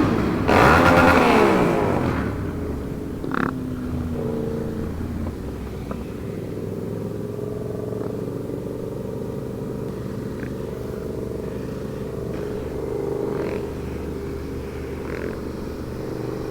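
Sportbike engine heard from the rider's seat: the revs drop sharply about half a second in, then it runs at a steadier, gently varying speed with a rush of wind noise.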